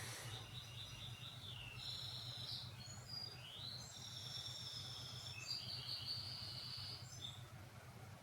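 A bird singing a string of high chirping phrases with short held notes and an upward glide, falling quiet about a second before the end, over a low steady hum.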